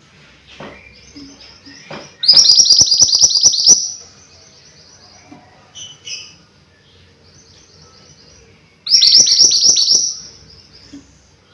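Mantenan gunung songbird singing: two loud bursts of fast, repeated high notes, one about two seconds in and one near the end, with softer chirps between.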